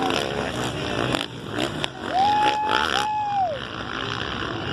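450cc motocross bikes running and revving on the track, with two long high calls close together, each rising, holding, then falling, about two seconds in.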